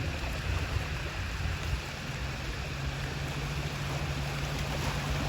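A steady low engine hum under a rushing noise of wind and moving air, without a break.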